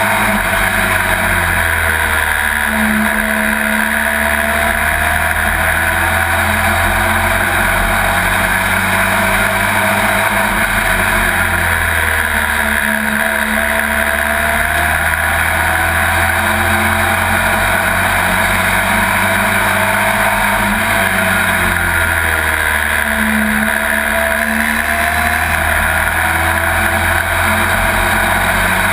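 Pro Truck race truck's engine running hard at race speed, heard from inside the cab. Its note dips and climbs again in a repeating cycle about every ten seconds.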